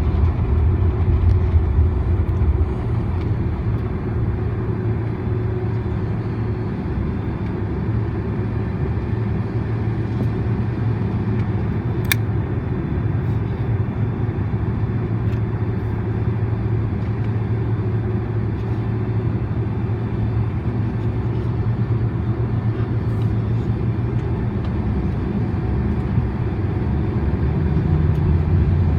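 Steady low rumble inside the cabin of a Boeing 767-400ER with its engines running, growing slightly louder near the end. A single sharp click about twelve seconds in.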